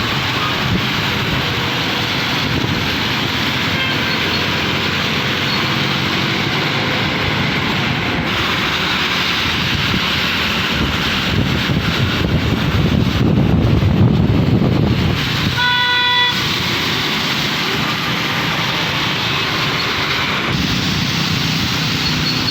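Traffic on a rain-wet road: a steady hiss of tyres and rain, with a vehicle rumbling louder past about two-thirds of the way through. Right after it, a vehicle horn gives one short beep.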